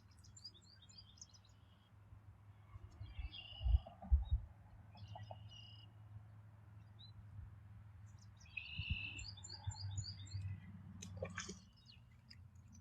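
Small birds chirping in short runs of quick, high notes, several times over, above a low steady rumble. Two dull thumps a little under four seconds in are the loudest sounds.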